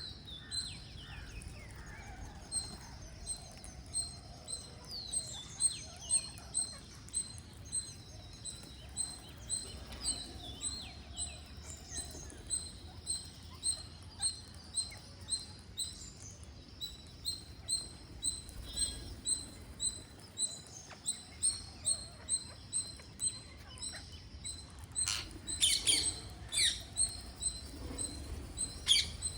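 Birds calling at feeding time: a steady string of short, high chirps about two a second, with a few falling whistled calls at the start and a burst of loud, harsh green-parrot screeches near the end.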